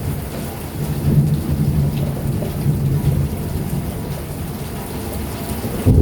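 Heavy rain pouring down in a summer thunderstorm, with a low rolling rumble of thunder that swells about a second in and again near the end.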